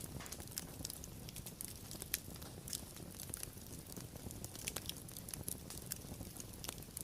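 Wood fire crackling and popping, with irregular sharp snaps over a low steady rumble of burning. A louder pop comes about two seconds in.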